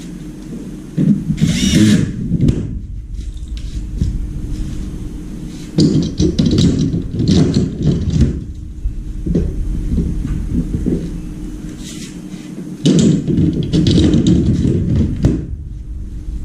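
Irregular bursts of knocking and rattling, as of parts and tools being handled, in several clusters over a steady low hum.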